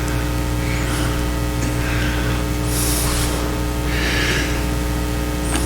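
Steady electrical hum from a sound system, with a few soft breath noises, the loudest about three seconds in.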